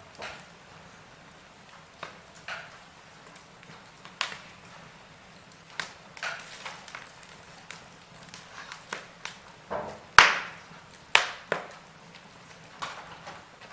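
Wood fire in a fireplace crackling, with irregular sharp pops and snaps over a faint steady background; the loudest snap comes about two-thirds of the way through.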